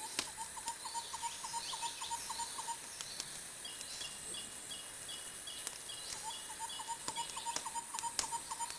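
Wood fire crackling with a few sharp pops, over a bed of animal calls: rapid chirps about five a second in the first three seconds and again from about six seconds in, a run of short higher notes in between, and a steady high insect-like whine throughout.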